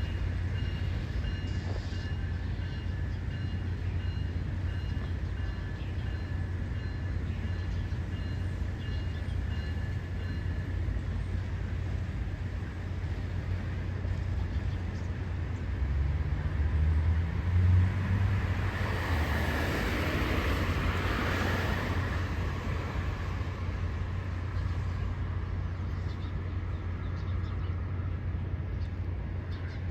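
Steady low engine rumble, with a vehicle passing by about 16 to 24 seconds in, swelling and then fading.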